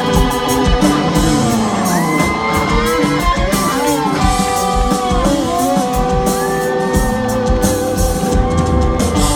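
Live rock band playing loudly in an arena, with an electric guitar solo of held and bent notes over drums and bass.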